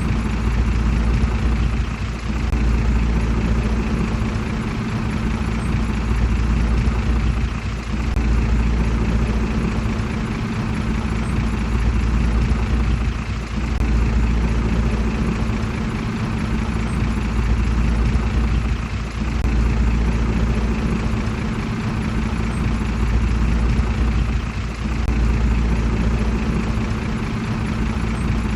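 Komatsu D31PX bulldozer's diesel engine running steadily, its loudness easing and swelling again about every five to six seconds.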